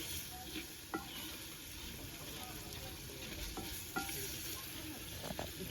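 Food sizzling as it fries in a pot, with a steady hiss and a few light knocks as it is stirred.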